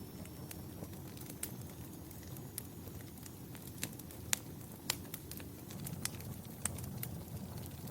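Wood fire burning in a fireplace: a steady low rumble of flames with sharp crackles and pops scattered throughout, a few louder pops around the middle.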